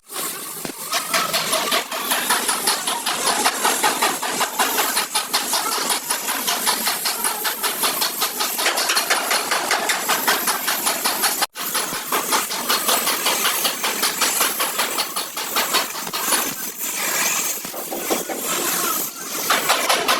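A motor running with a fast, even beat, cut off abruptly about midway and then resuming.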